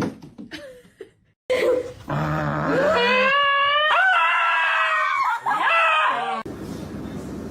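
A dog howling in one long wavering call that rises in pitch, with a brief break near the end. It cuts off suddenly.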